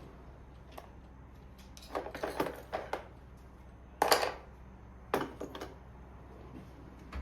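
Household handling noises: a cluster of clattering knocks, then a louder knock, then another short clatter, as objects are picked up and set down.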